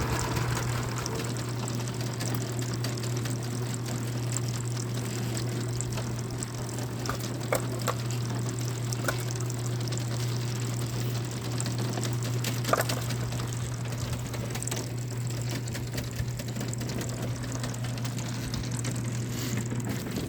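Engine running steadily at idle, with a few short, sharp knocks along the way.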